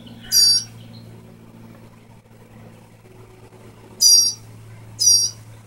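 A bird giving three short, high-pitched calls, one just after the start and two close together near the end, over a steady low hum.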